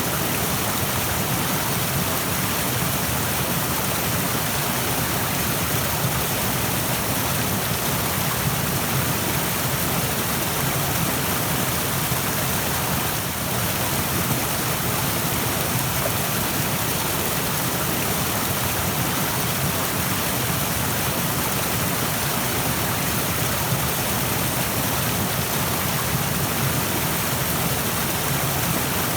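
Stream of water rushing over rocks, a steady, even roar of water.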